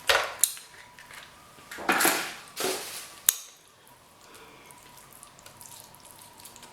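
Wet, messy eating sounds from saucy seafood-boil king crab legs: a few short slurping, squelching bursts and a sharp click in the first half, then it goes quiet.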